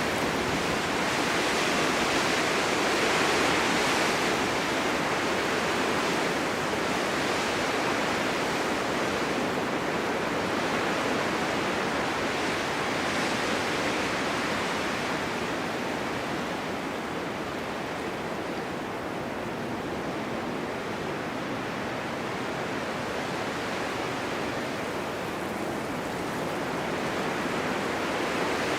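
Blizzard wind blowing steadily, rising and falling in slow gusts of wind-driven snow.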